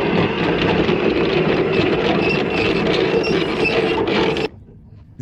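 Yacht's electric anchor windlass hauling in the anchor chain, running steadily, then cutting off suddenly near the end as the anchor comes up.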